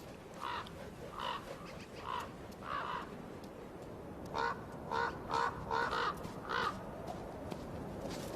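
Crows cawing repeatedly. Four spaced caws come first, then a quicker run of about six caws about halfway through.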